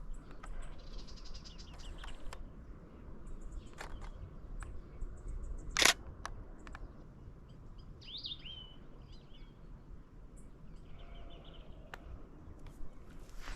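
Canon Rebel T7i DSLR shutter firing: several sharp clicks, some in quick runs, the loudest about six seconds in. Small birds chirp briefly about eight seconds in.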